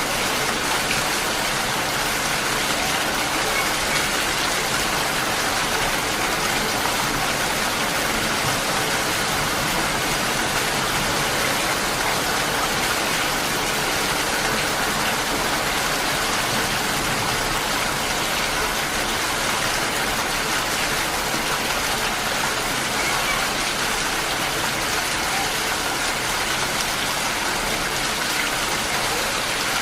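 Heavy rain falling steadily, a dense even hiss of downpour on hard surfaces.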